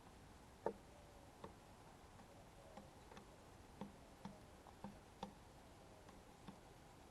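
Faint, irregular small taps and clicks, about one or two a second, over a quiet steady hiss.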